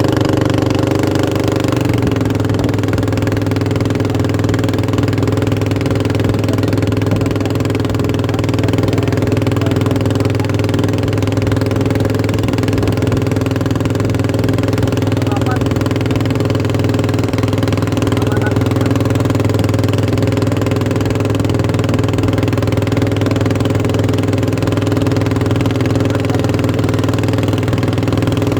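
An engine running steadily at a constant speed: a loud, even drone with no change in pitch or level.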